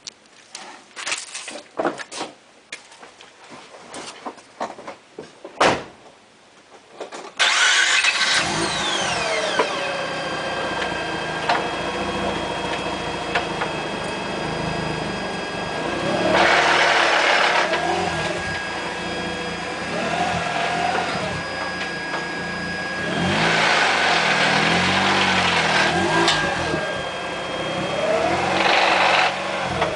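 Car engine starting about seven seconds in after a few clicks, then running and revved up and down several times, with a grinding noise from a newly fitted Exedy clutch.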